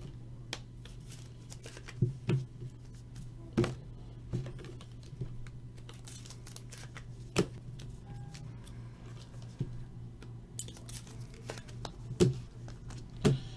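Trading cards being handled and slid into rigid plastic top loaders: irregular light clicks, scrapes and rustles, a few sharper than the rest, over a low steady hum.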